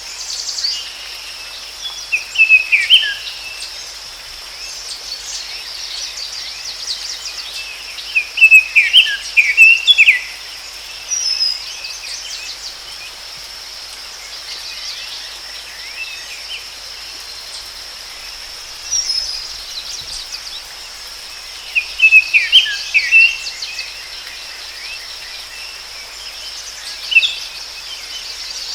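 Forest ambience: a steady high insect drone throughout, with songbirds calling in short clusters of quick falling chirps every several seconds.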